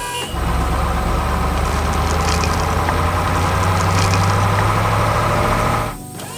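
Heavy vehicle engine sound effect, running steadily at a low idle; it starts just after the beginning and cuts off suddenly near the end.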